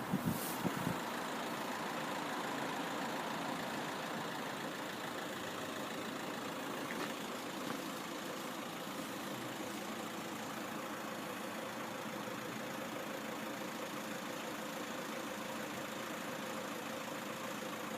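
A motor vehicle's engine idling steadily, with a few short knocks right at the start.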